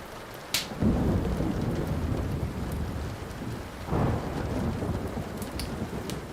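Thunder rolling over steady rain: a loud peal about a second in, then a second peal about four seconds in, both dying away slowly. A few sharp pops from a burning wood fire break in just before the first peal and again near the end.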